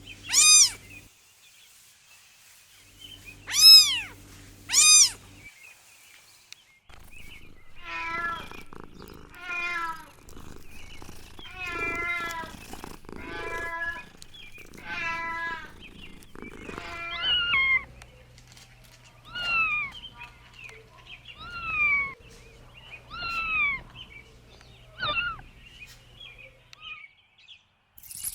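Cats meowing over and over, about a dozen separate high-pitched meows. A few loud arching meows come in the first five seconds, then a run of wavering, quavering meows, then softer meows that fall in pitch near the end.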